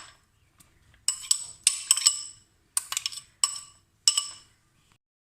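A metal spoon tapping against the rim of a metal mixing bowl, knocking off chopped onion: a series of ringing clinks, several in quick clusters, each with a short metallic ring.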